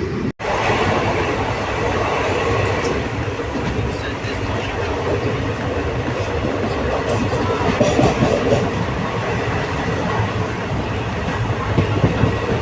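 Passenger train running along the track, a steady rumble and rush of noise, with a split-second dropout just after the start.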